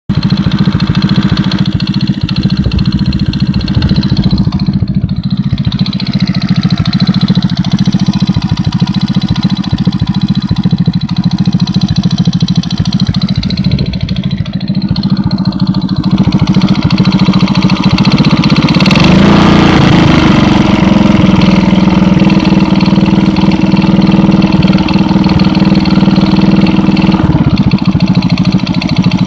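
Alfa moped's 110cc single-cylinder four-stroke engine idling with a knock from the cylinder head. About 19 seconds in the revs rise and are held higher until about 27 seconds, then drop back to idle. The knock goes away at higher revs, and it has survived a valve clearance adjustment and a new timing chain and tensioners.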